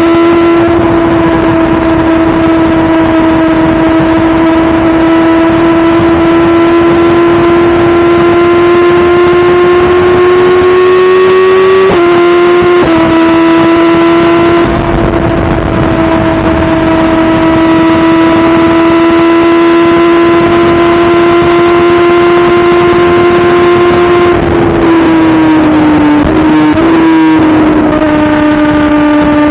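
2017 BMW S1000RR's inline-four engine running at high, steady revs under way, its pitch creeping slowly upward, with a brief break in the note about twelve seconds in. Near the end the revs fall and waver, then settle at a lower steady note.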